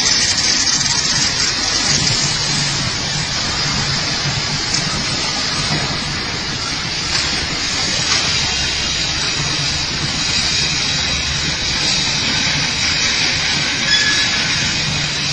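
Arc of a robotic gas-shielded welder burning steadily along a fan impeller blade: a continuous crackling hiss with a few sharper snaps.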